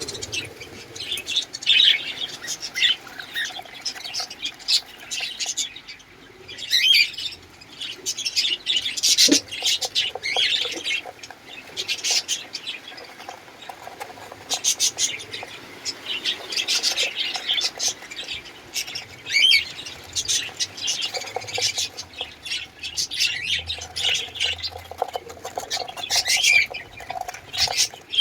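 Cage birds in a breeding aviary chirping and squawking, a busy run of short, high calls with no pause.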